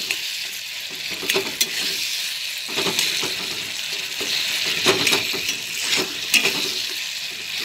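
Tomato and onion masala sizzling in hot oil in a pan while a metal spatula stirs and scrapes it, with a scatter of sharp clicks as the spatula knocks against the pan.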